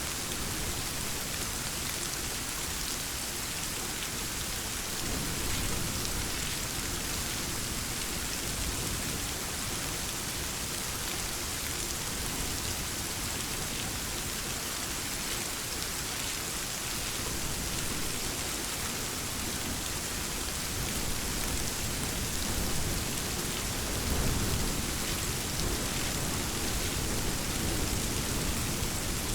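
Steady rainfall hissing, with low rumbles of thunder swelling about five seconds in and again, a little louder, near the end.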